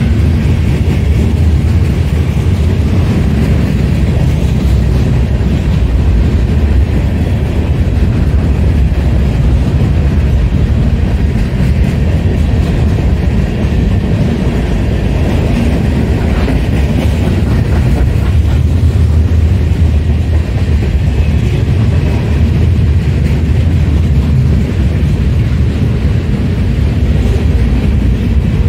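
Union Pacific manifest freight train's cars rolling past at close range: a steady, loud rumble of steel wheels on the rails with some clickety-clack.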